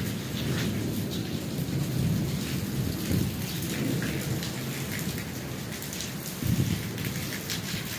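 Heavy rain pouring down, a dense steady rumble with scattered drops pattering on surfaces close by.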